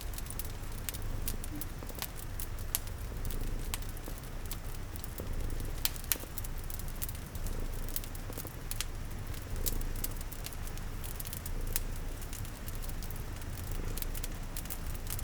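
Wood fire crackling with frequent sharp pops, over a low, steady cat purr and the soft patter of rain.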